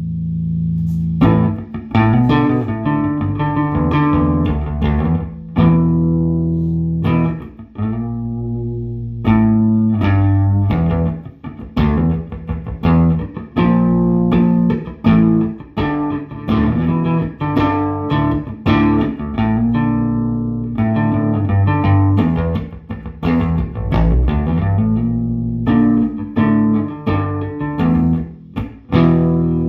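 Electric bass guitar played through a 1973 Fender Quad Reverb combo amp with four 12-inch Weber Legacy speakers: a steady run of plucked notes and short phrases, with a few held notes left ringing between them.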